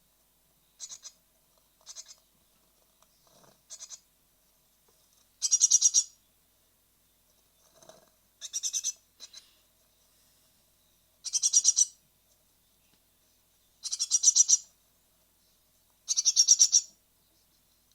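Great tit nestlings giving high-pitched begging calls in repeated bursts of rapid chittering, about every two to three seconds, some bursts loud and some faint.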